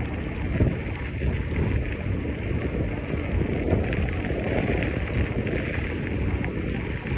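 Wind buffeting the microphone with a steady low rumble, the kind heard while riding a bicycle.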